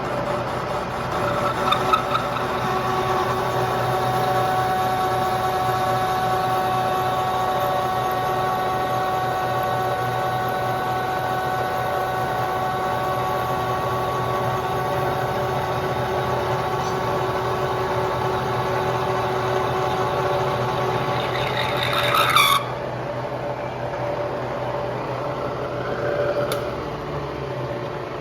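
A vehicle running: a steady drone with several held whining tones, cutting off suddenly about 22 seconds in.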